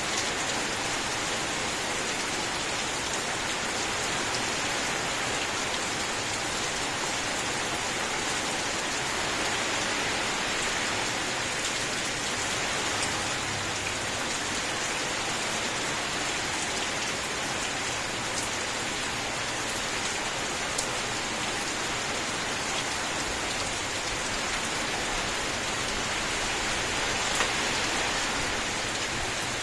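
Steady rain falling on a surface, a continuous even hiss with scattered individual drop ticks.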